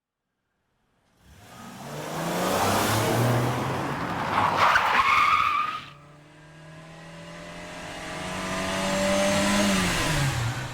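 Car engine running hard with tyre squeal, in two bursts: the first builds and cuts off abruptly, the second swells and falls away with a dropping engine note, like a car speeding past.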